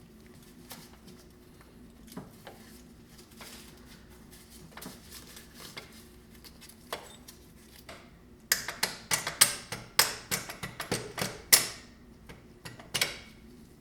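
Hand tools and metal engine parts clinking and knocking while a piston and connecting rod are worked loose from the engine block. It is quiet at first, with a few light clicks, then a quick run of a dozen or so sharp metal knocks about eight to twelve seconds in and one more near the end, over a faint steady hum.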